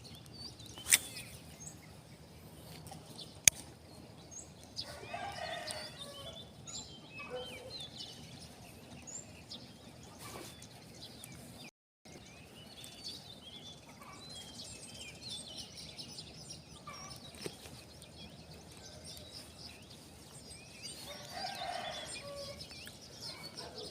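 Chickens clucking and small birds chirping in the background, with two sharp clicks in the first few seconds.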